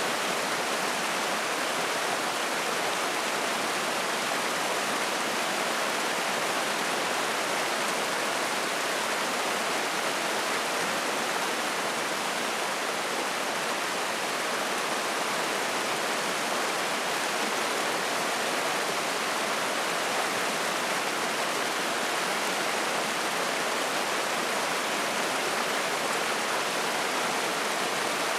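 Spring-fed mountain stream rushing and splashing, a steady, even sound with no breaks.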